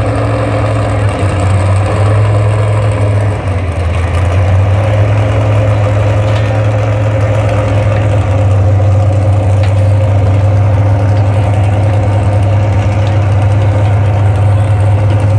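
Tractor engine running loud and steady at a tractor pull, a deep even drone without revving, growing slightly louder about four seconds in and again near the middle.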